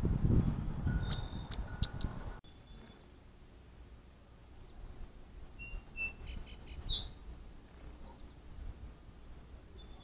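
Small birds chirping: a few short high chirps about a second in, then a quick run of chirps around six to seven seconds in. A low rumble fills the first two seconds and cuts off abruptly.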